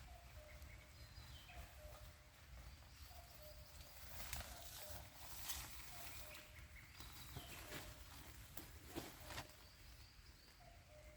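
Quiet forest ambience: a bird repeats a short, low, slightly falling note every second or so, with fainter higher chirps. Two short spells of crackling rustle come about halfway through and again later.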